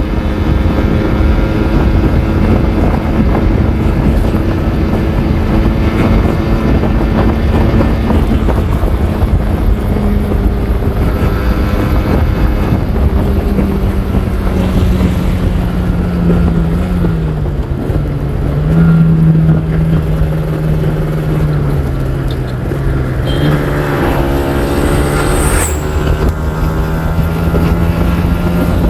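Kawasaki Ninja R 150's two-stroke single-cylinder engine running steadily, its pitch dropping in steps about two-thirds of the way through and then rising again.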